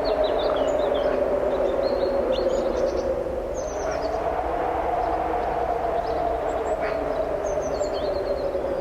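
Strong wind blowing steadily, with a low howl that slowly rises and falls in pitch. Small birds chirp and trill in short high phrases over it.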